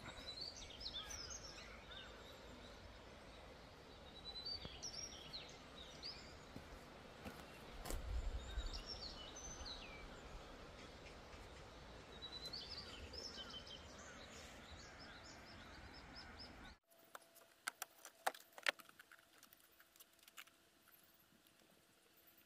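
Birds chirping in short groups of quick high calls, a few seconds apart, over a steady outdoor background, with a low rumble about 8 seconds in. Near the end the background drops away suddenly, leaving a few sharp clicks and knocks.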